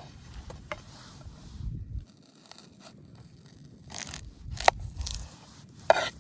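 A metal grill grid being handled and set on a raised fire pit: scattered scrapes and light clinks, with two sharp clicks in the second half that are the loudest sounds.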